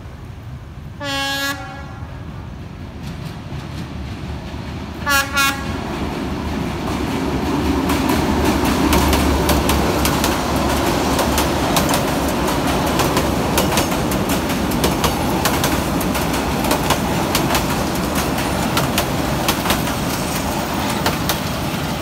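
Vietnam Railways passenger train sounding its horn, one blast and then two short blasts about four seconds later. The coaches then pass close by, with the wheels rumbling and clicking over the rail joints.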